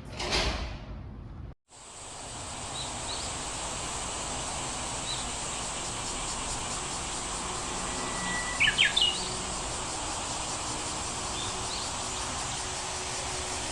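Outdoor ambience: a steady hiss with scattered faint bird chirps and a louder quick run of chirps a little past the middle. It opens with a brief whoosh that cuts out.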